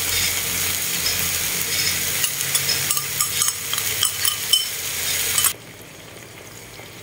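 Lá lốt-wrapped mushroom rolls sizzling in a frying pan as chili oil is spooned over them, with scattered crackles and light spoon clinks against a ceramic bowl. The sizzle cuts off suddenly about five and a half seconds in.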